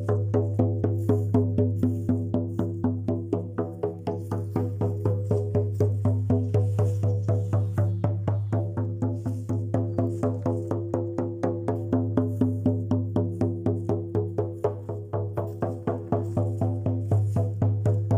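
Hand drum beaten in a steady, fast rhythm of about four strokes a second, each stroke ringing on in a deep, sustained tone.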